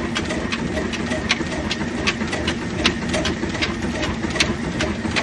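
Old diesel engine running steadily: a low rumble with a sharp knock repeating about three times a second.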